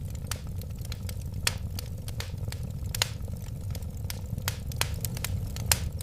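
Wood fire burning: scattered sharp crackles and pops over a steady low rumble of the flames, with the loudest pops about three seconds in and near the end.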